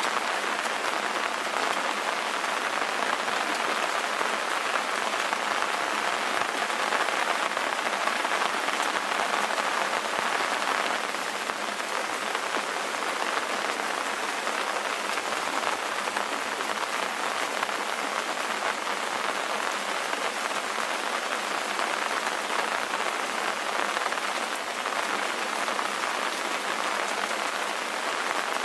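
Steady rain ambience: an even, unbroken hiss of rainfall, strongest in the mid-highs, with the bass filtered out and no thunder.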